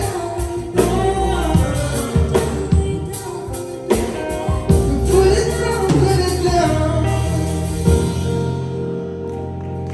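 A live band playing a song with a singer, over steady chords and regular drum hits; the drums and upper sounds drop away in the last second or so as the song winds down.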